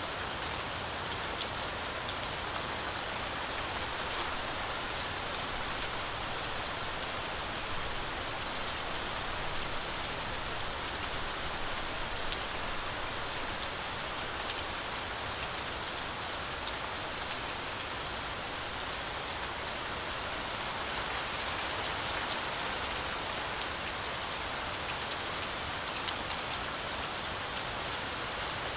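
Heavy rain falling steadily through a forest canopy, a dense even hiss with many small drop ticks throughout.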